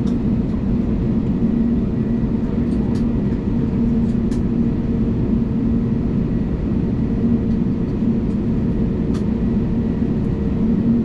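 Airbus A320neo cabin noise during taxi: a steady hum from the engines at taxi power over a low rumble, with a few faint clicks.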